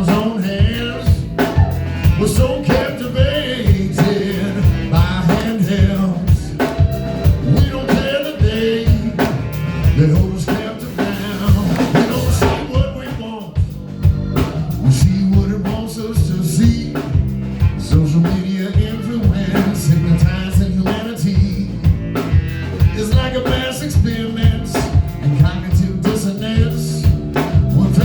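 Live band playing a blues number: a drum kit keeps a steady beat under a walking bass, with a bending melodic lead line above.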